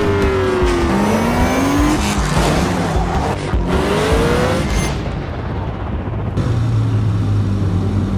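Aston Martin Vantage's twin-turbo V8 revving, its note falling and rising through gear changes at speed. About five seconds in, the sound turns muffled and a steady low drone takes over.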